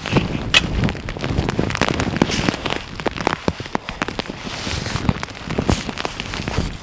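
Wood fire crackling and popping, with dense irregular sharp cracks.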